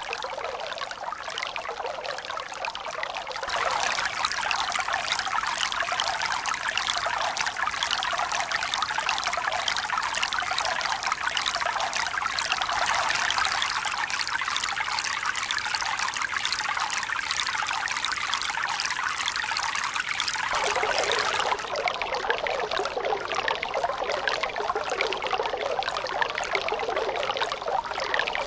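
Steady running, splashing water, like a stream or pouring water, with no rise and fall of waves. It gets louder and brighter about three and a half seconds in, and changes abruptly again about twenty-one seconds in.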